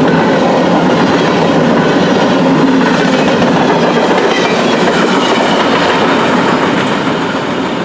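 CN freight train's railcars rolling past close by: a steady, loud rumble and clatter of steel wheels on the rails, easing slightly near the end.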